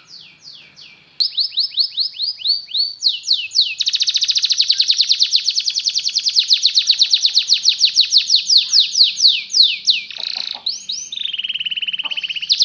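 Canary singing in tours of fast repeated falling notes, then a long rapid trill and a lower rolling note near the end. The song gets suddenly louder about a second in.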